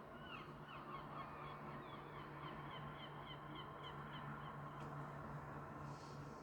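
Steady rain hiss with a bird calling over it: a run of short, falling high chirps that speed up and fade out about four seconds in. A low, steady hum runs underneath.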